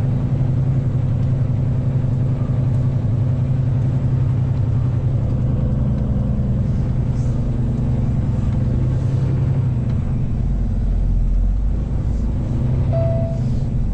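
Semi truck's diesel engine heard from inside the cab, running steadily as the truck sets off; its note changes about ten seconds in, with a deeper rumble coming up. A short beep sounds near the end.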